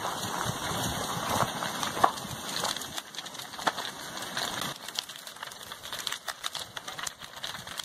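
Irregular crackling and popping from a house burning as lava engulfs it, over a steady background rush.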